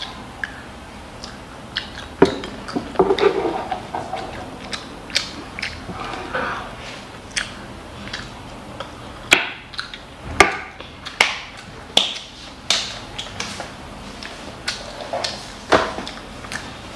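A child eating kimchi fried rice: chewing and mouth-smacking sounds, with many short sharp clicks and taps throughout.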